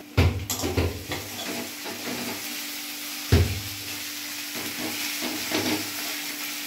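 Chopped onion with ginger and garlic frying in oil in a metal kadai, sizzling steadily as a spatula stirs and scrapes it around the pan. The spatula knocks sharply against the pan twice, just after the start and about three seconds in.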